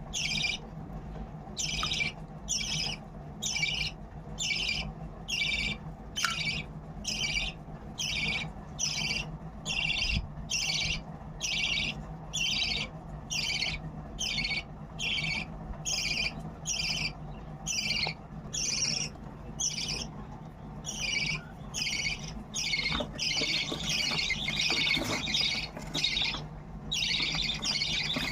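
Budgerigar chicks giving begging calls for food, short high calls repeated about three every two seconds, running together into almost continuous calling near the end.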